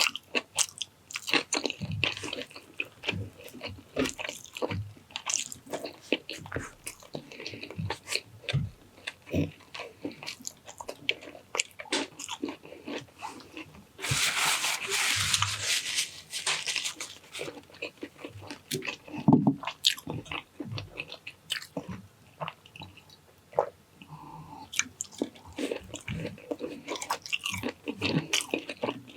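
Close-miked mouth sounds of eating pork cheek caldereta with rice: steady chewing and biting, with many sharp clicks. A little before the middle comes a rushing noise lasting about three seconds.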